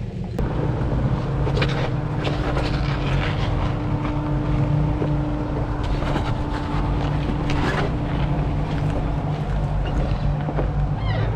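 Nissan Xterra engine running steadily at low revs while crawling a rocky trail, with scattered clicks and knocks.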